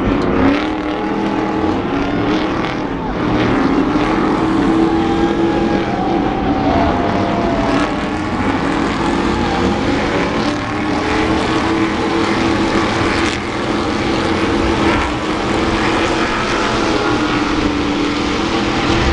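Racing stadium trucks' engines running hard, several at once, their pitch rising and falling as the drivers rev and shift.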